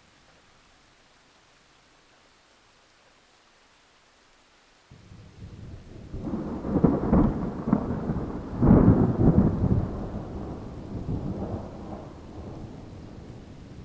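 Faint steady hiss, then about five seconds in a long rumble of thunder breaks in suddenly over rain, swelling to two loud peaks and slowly fading.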